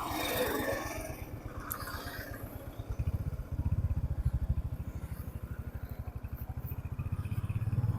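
Motorcycle engine running with a steady, rapid low pulsing, a little louder from about three and a half seconds in.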